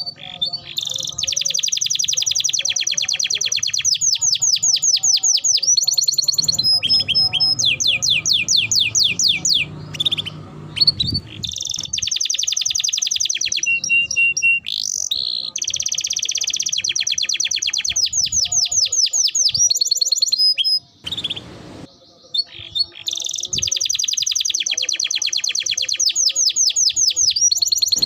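Canary singing long, fast rolling trills of rapidly repeated high notes, each run lasting several seconds, with a few brief chirps and short pauses between runs.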